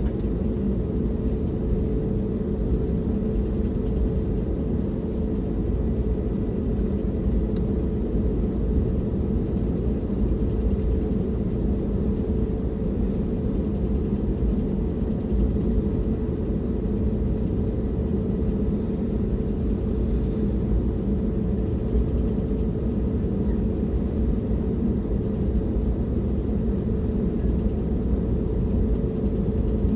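Steady cabin rumble of an Airbus A321neo on the ground before takeoff, its engines at idle, with a constant low hum throughout.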